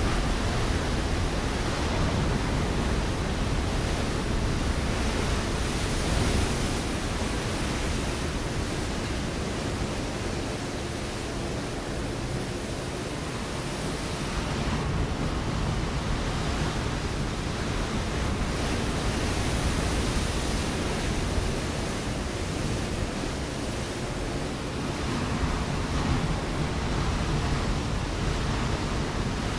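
Ocean waves breaking on a rocky shore: a continuous wash of surf that swells and eases slowly, without pauses between breakers.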